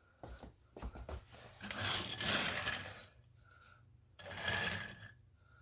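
A few light taps, then two stretches of rubbing and scuffing, a toy engine being scrubbed back and forth against a shoe to shine it.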